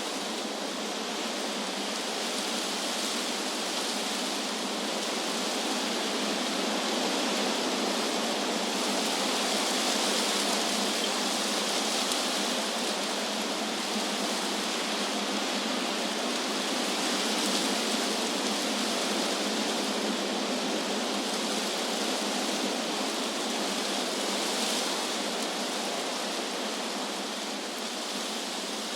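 Wind blowing through trees, rustling the leaves: a steady hiss that slowly swells and eases in loudness.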